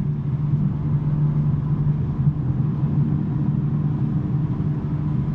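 BMW M3 G80's twin-turbo straight-six, fitted with a non-resonated J-pipe exhaust, running at a steady engine speed: a steady low drone with no revving.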